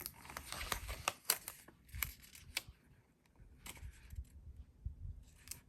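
Paper handling at a craft table: rustling of paper and sticker sheets with scattered light clicks and taps, pausing briefly around the middle.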